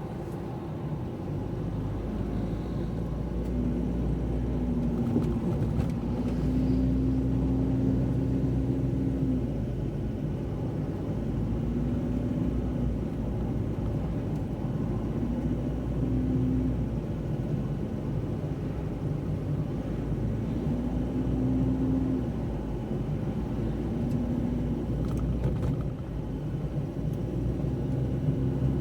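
Car driving, with a steady low engine and road rumble. The engine note rises and falls several times as the car speeds up, shifts and slows.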